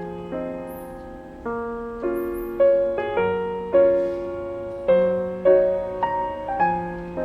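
Gentle solo piano background music, notes and chords struck about every half second and left to ring and fade.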